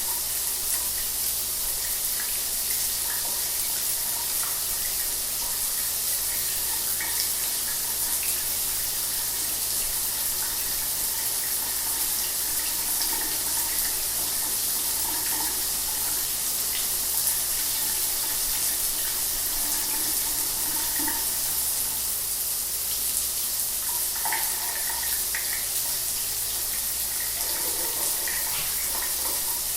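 Shower water running steadily, an even hiss of spray splashing down.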